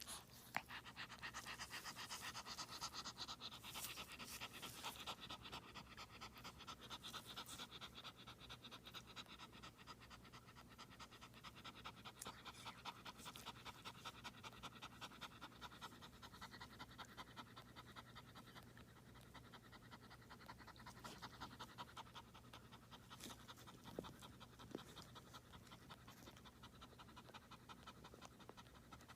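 Shih Tzu in labour panting rapidly and steadily, faint.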